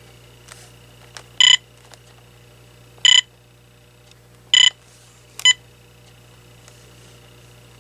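Key-press beeps from an AT&T 7720 cordless phone as its buttons are pressed: four short beeps about a second and a half apart, the last one shorter, with faint button clicks before some of them.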